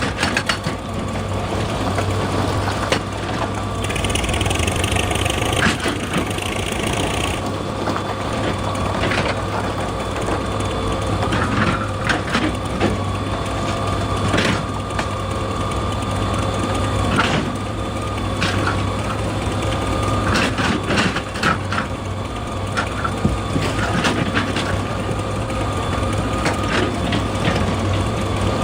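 Excavator's diesel engine running steadily under load, with irregular sharp knocks and clatter of rock being broken. A brief hiss joins it about four seconds in and stops a few seconds later.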